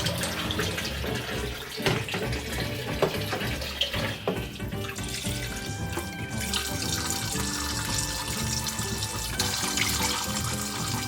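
Tap water running into a sink as humidifier parts and filters are rinsed of loosened scale, with a few short knocks of the parts against the sink, over background music.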